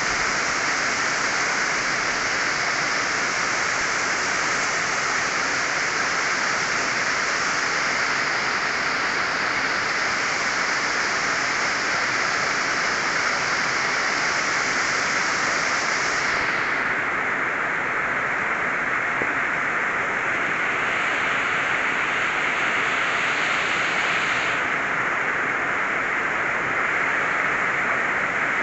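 Heavy rain falling in a downpour, a steady dense hiss.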